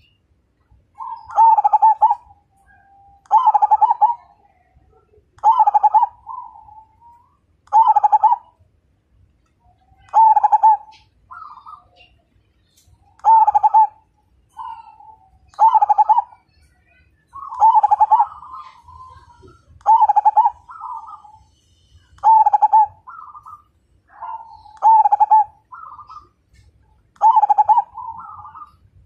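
Perkutut (zebra dove) singing its coo phrase over and over, one loud rolling phrase about every two seconds, with fainter short coo notes between some of them.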